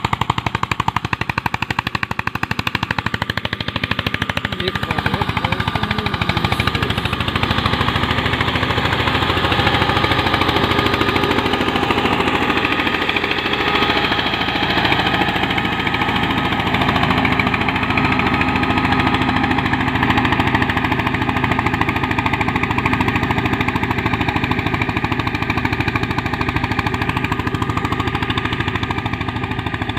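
Single-cylinder diesel engine of an Eicher 241 tractor pulling a harrow, running with a steady, rapid chain of loud exhaust beats.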